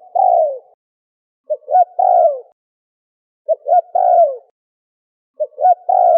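Spotted dove cooing: a phrase of two short notes and then a longer falling coo, repeated about every two seconds.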